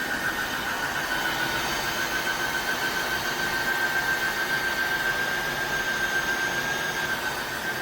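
Tineco iFloor 5 Steam wet-dry floor vacuum running steadily in steam mode: motor and suction noise with a steady high whine.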